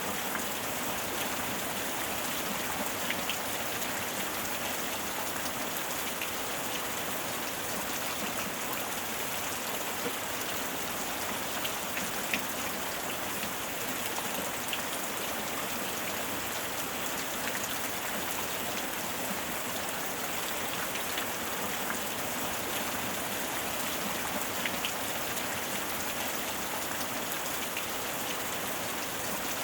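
Steady heavy rain falling on surfaces: an even hiss with scattered individual drop ticks.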